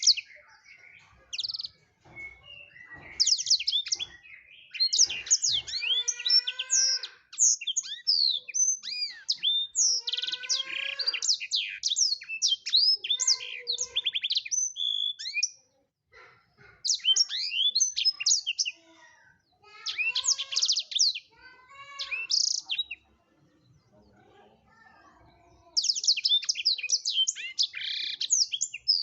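Black-throated canary (blackthroat) singing vigorously: long bursts of rapid, high twittering and trills. Two short breaks, a longer one about three-quarters of the way through.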